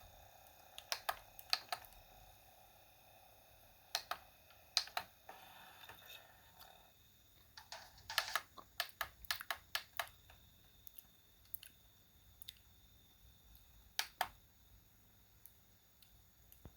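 Plastic toys being handled, giving scattered sharp clicks and light taps, with a quick run of clicks about eight seconds in.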